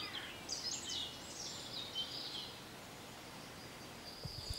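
Faint birdsong over quiet outdoor background: a run of quick, high chirps in the first half, then only the soft background.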